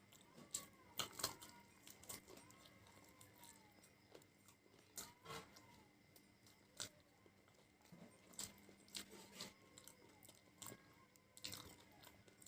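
A person chewing and biting into crunchy food close to the microphone, with sharp crunches at irregular intervals.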